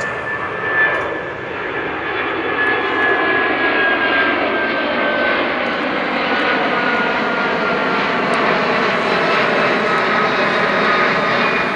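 Air Transat Airbus A330's twin jet engines at take-off power: a loud roar that builds over the first few seconds and then holds, with a high whine slowly falling in pitch.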